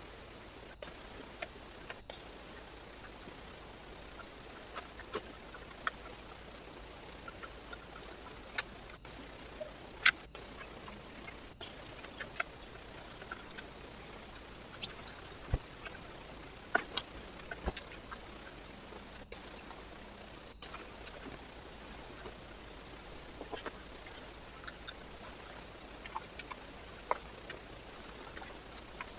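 Scattered sharp ticks and taps of small animals feeding at a bird feeder, irregular and loudest about a third of the way in, over the steady hiss of a trail camera's microphone.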